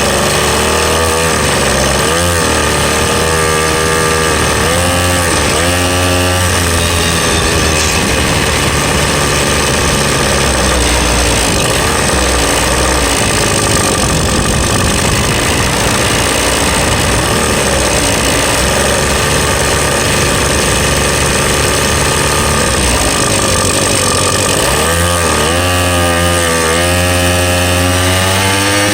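Small gasoline engine of a ride-on vehicle being ridden, revving up and down several times, running steadier for a stretch, then climbing in pitch again near the end as it accelerates.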